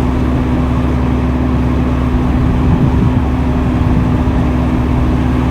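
Diesel engine of heavy earthmoving equipment running steadily, with a constant low hum that swells slightly in the middle.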